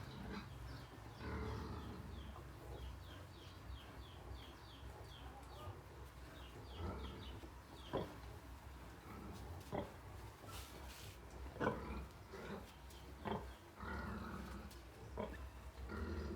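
A sow and her newborn piglets at the teats: low grunting with a quick run of short, high, falling squeaks, then a few sharp knocks.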